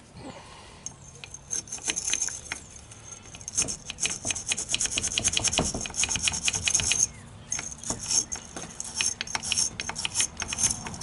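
A stiff brass wire brush scrubbing a cleaned carburetor part in rapid, scratchy strokes, working leftover gunk out after a chem dip. It pauses briefly a little past the middle, then carries on.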